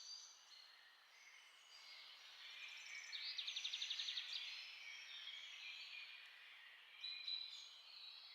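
Several songbirds singing and chirping, faintly, with a fast trill of about ten notes a second around the middle.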